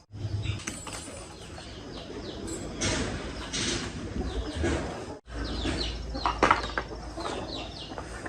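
Birds chirping over and over in short falling calls, over a low background rumble; the sound drops out for an instant about five seconds in.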